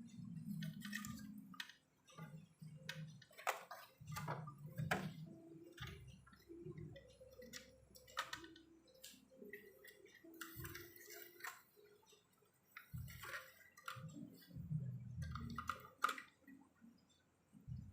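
Irregular sharp clicks and dull knocks, with some rustling, from tools and parts being handled during a repair.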